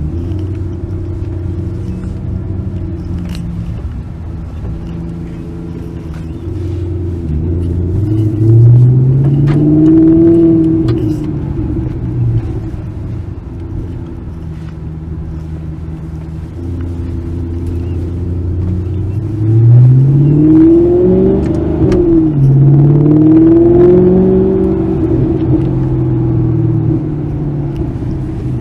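Sports car engine idling, revved up and held about eight seconds in, then blipped three times in quick succession about twenty seconds in before settling back to idle.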